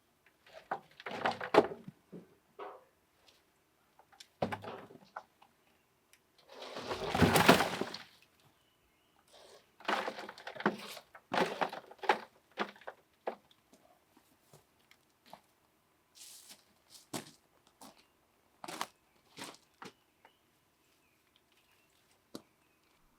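Irregular knocks, clicks and clatters, with one longer scraping, rushing noise about seven seconds in.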